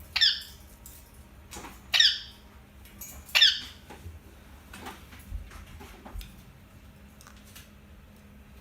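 Indian ringneck parakeet giving three short, loud calls roughly a second and a half apart, followed by a few faint clicks.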